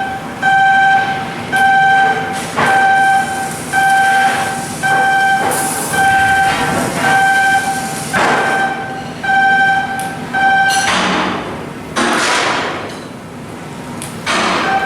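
An electronic warning beeper sounds a steady tone about once a second, roughly ten beeps, over the clatter of shipyard work. After about eleven seconds the beeping pauses and several loud rushing bursts of noise follow, and then the beeping starts again at the very end.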